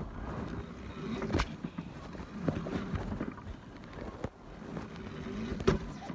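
Dirt bike engine running unevenly, with three sharp knocks about one, four and five and a half seconds in.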